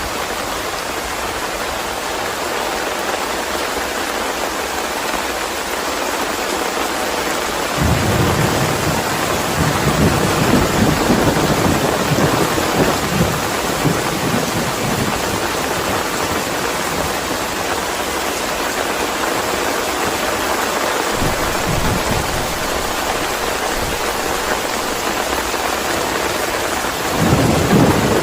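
Steady rain hiss with rolls of thunder: a deep rumble breaks in about eight seconds in and fades away over several seconds, and another starts near the end.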